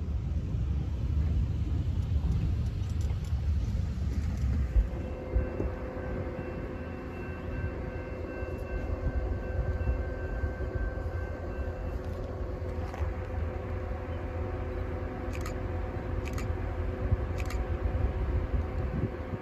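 Freight train rumbling nearby. About five seconds in, the sound changes abruptly to a mix of steady tones over a low rumble, with a few sharp clicks near the end.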